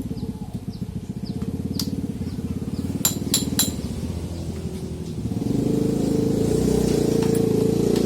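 Small motorcycle engine running with a steady pulse, growing louder about five and a half seconds in. Three sharp metallic clinks come about three seconds in.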